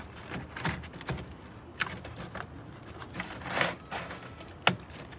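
Irregular clicks, knocks and scrapes of hand work on a pop-up camper's wooden wall, with a longer rasping scrape about three and a half seconds in and a sharp click near the end, as a piece is checked for dry rot.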